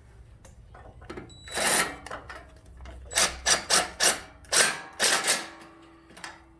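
A tool tightening the bolt that holds a ground wire and the engine tin on a riding mower: one short burst about a second and a half in, then about seven quick, sharp bursts in a row.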